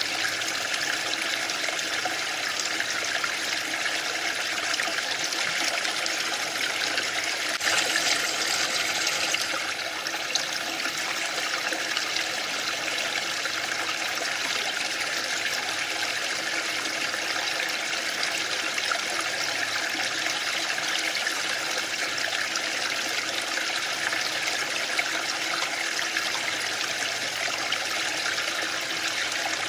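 Waterfall: the steady hiss of falling water, with a slightly louder, brighter surge about eight seconds in that lasts under two seconds.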